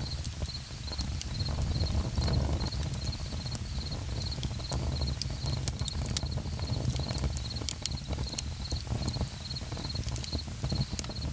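Campfire crackling and popping with sharp irregular snaps over a low steady rumble, while an insect chirps steadily about twice a second.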